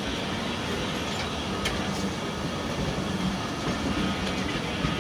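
Passenger coaches of a Pakistan Railways express train rolling past close by on the next track: a steady rumble and rattle of wheels on rail, with one sharp click about a second and a half in.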